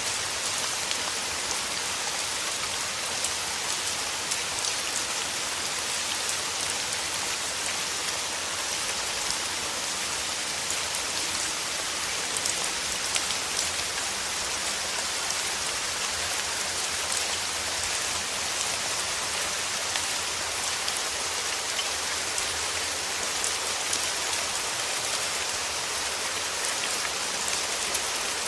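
Steady rain falling: an even hiss of rain with many small individual drop impacts through it.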